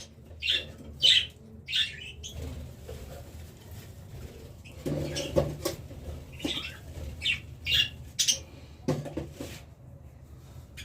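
Cage birds chirping in short, high calls, about ten scattered through the stretch, with a brief lower sound near the middle.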